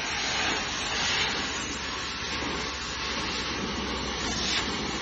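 Pressure washer spraying water at high pressure, a steady hiss, as used to degrease a kitchen exhaust hood.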